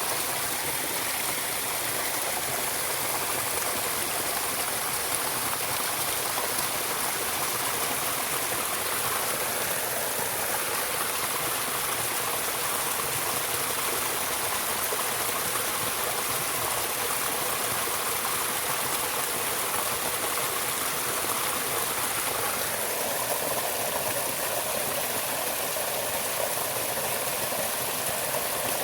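A flowing stream, a steady rush of running water that shifts slightly in tone about two-thirds of the way through.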